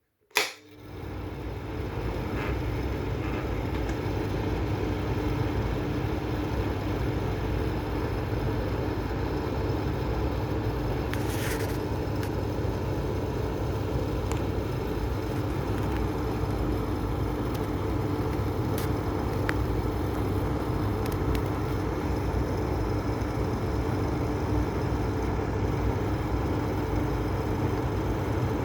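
Mistral wall exhaust fan: a click, then the fan spins up over about two seconds and runs steadily, a constant rushing of air with a low hum.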